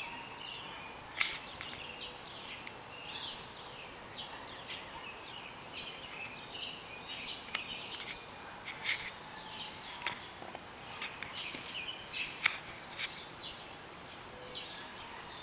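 Songbirds calling and singing around a backyard feeder: a steady run of short chirps and warbled phrases over faint outdoor hiss. Two sharp clicks stand out, about a second in and again near the end.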